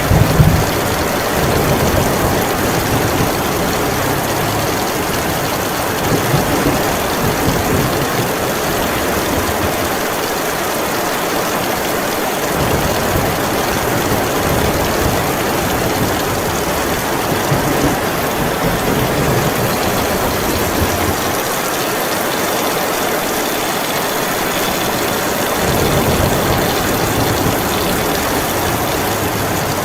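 Heavy rain pouring steadily, with low rumbles swelling and fading every few seconds, the strongest right at the start.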